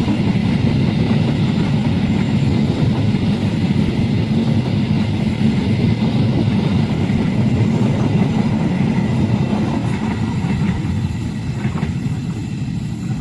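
A train passing close by: a steady, loud low rumble of wheels on the rails that eases off over the last few seconds.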